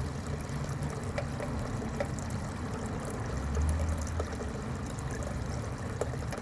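Water trickling steadily, with a few faint clicks scattered through it and a low rumble that swells briefly about halfway.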